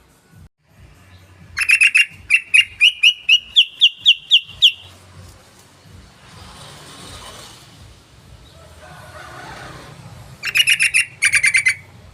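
Yellow-vented bulbul (trucukan) calling: a rapid run of about a dozen sharp, clipped notes over about three seconds, creeping slightly up in pitch. After a pause, a second quick burst of chattering notes comes near the end.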